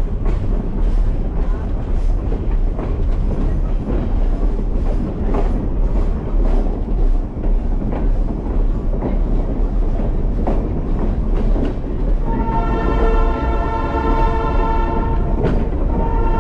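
Skunk Train passenger cars rolling on the track: a steady rumble with irregular clicks of the wheels over the rails. About twelve seconds in, the train's horn sounds a long, steady chord of several tones, breaks off briefly and sounds again.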